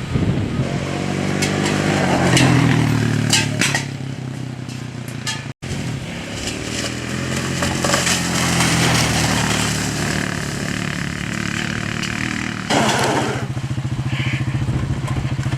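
Four-wheeler (ATV) engine running and revving up and down, with a few sharp knocks in the first few seconds. Its sound cuts out for an instant about five and a half seconds in.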